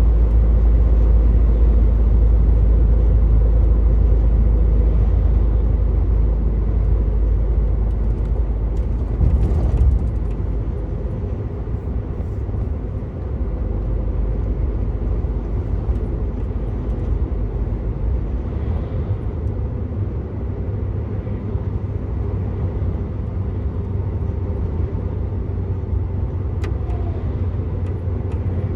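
Truck engine and tyre noise on the road: a steady low rumble, which lessens a little about ten seconds in.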